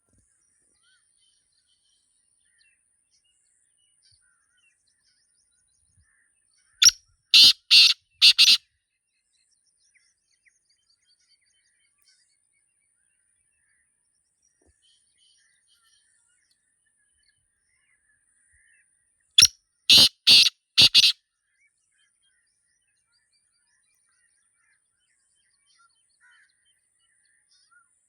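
Black francolin calling twice, about twelve seconds apart, each call a loud, harsh phrase of four or five clipped notes lasting under two seconds. Faint chirps of other small birds come in between.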